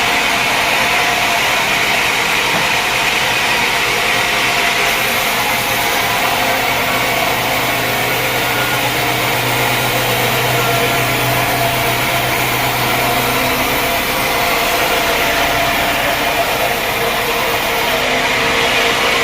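Sawmill machinery running steadily, a continuous motor hum with a low drone that grows stronger for several seconds in the middle.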